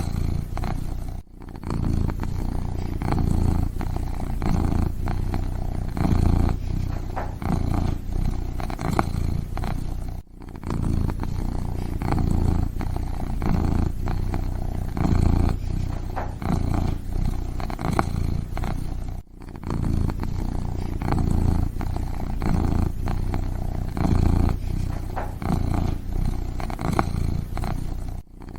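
Kitten purring steadily with a regular rhythm of in and out breaths, broken by a brief silence about every nine seconds.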